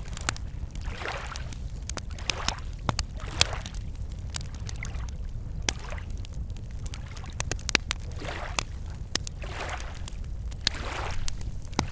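Wood campfire crackling with sharp, irregular pops, while small waves lap against a lakeshore in soft swells every second or two, over a steady low rumble.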